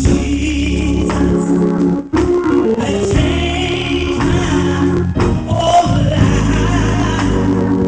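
Gospel music: singing over a band with organ, playing steadily.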